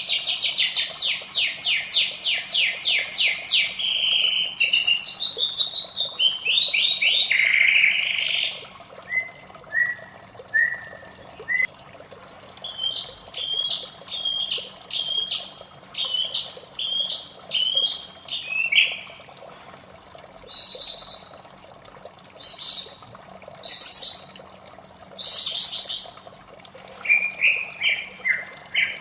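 White-rumped shama singing: a fast run of rapidly repeated notes for the first several seconds, then varied whistled phrases with short pauses between them, over a steady background of running water.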